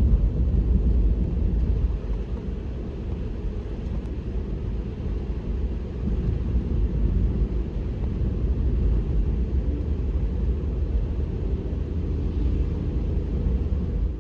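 Vehicle driving, heard as a steady low rumble of engine and road noise that dips slightly about two seconds in.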